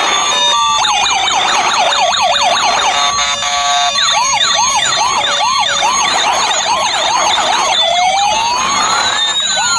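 Several electronic toy police-car sirens sounding at once: rapid repeating sweeps layered over slower rising and falling wails, with a stepped two-tone pattern partway through.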